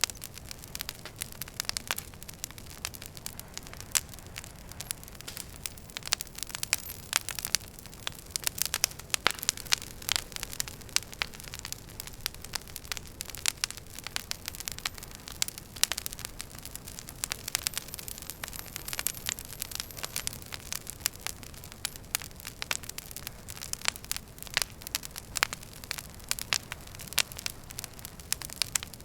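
Wood fire burning in a fireplace, crackling with many irregular sharp pops over a steady low rumble of flame.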